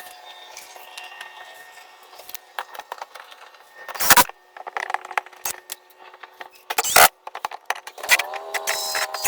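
Small metal hardware clinking and rattling with scattered sharp clicks, as bolts and washers are handled and fitted. About eight seconds in, a cordless drill's motor spins up and runs at a steady pitch.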